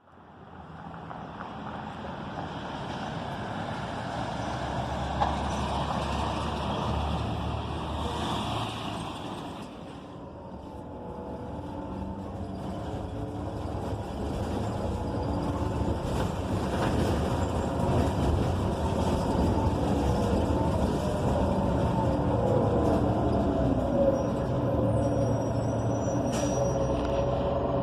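Gillig BRT Plus transit bus heard from inside, its Cummins Westport ISL G natural-gas engine and Allison B300R automatic transmission running as the bus moves, with a whine that rises and then falls. A hiss stops about ten seconds in.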